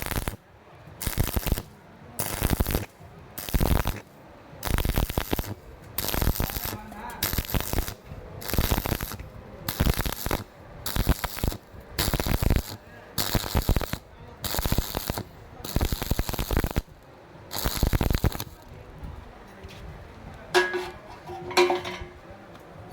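Stick-welding arc on thin square steel tubing, struck in short crackling bursts about a second apart, around fourteen in a row, stopping about three-quarters of the way through. Breaking the arc this way is the stitch method used to keep a thin wall from burning through.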